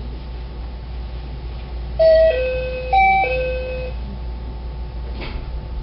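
Door-closing chime on a JR West 223 series train: two short two-note chimes, each falling in pitch, about a second apart, over a steady low hum from the stopped train.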